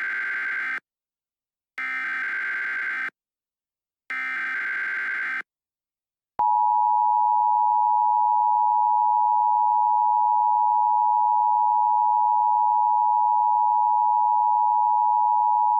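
Emergency Alert System header tones: short bursts of raspy digital data screech about a second apart, the first already under way, then two more. About six seconds in, a loud, steady EAS attention tone starts and holds unchanged.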